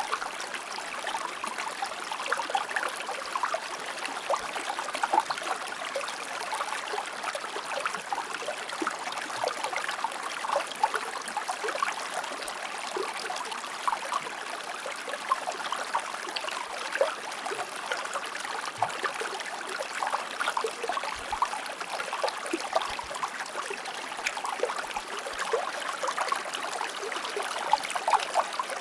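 A shallow river or stream flowing steadily over rocks, a continuous rush thick with small splashes and gurgles.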